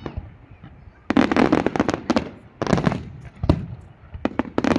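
Fireworks going off in three crackling volleys, each a dense run of sharp cracks lasting about a second, with quieter rumble between.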